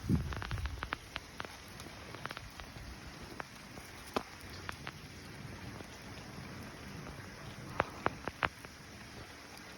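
Rain falling steadily, with individual drops ticking sharply on a hard surface. A few louder drips land about four seconds in and again around eight seconds.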